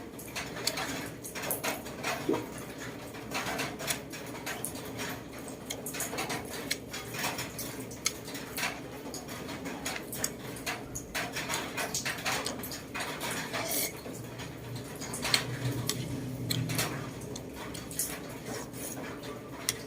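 Kitchen utensils clinking and scraping against pots and dishes: irregular small clicks and knocks, several a second, with a low hum between about fifteen and seventeen seconds in.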